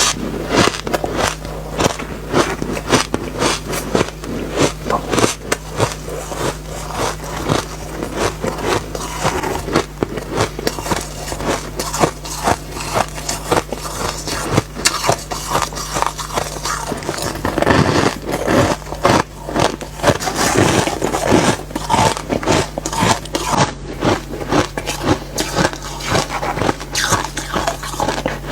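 Close-up chewing and biting of refrozen soft ice: a steady run of sandy, crackly crunches.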